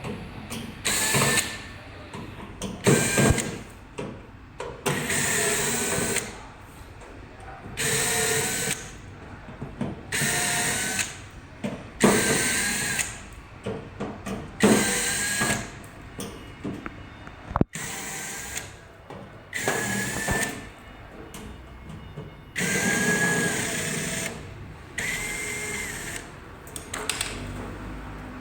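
A small electric motor switched on and off over and over, about a dozen runs of a second or so each, each with a high whine.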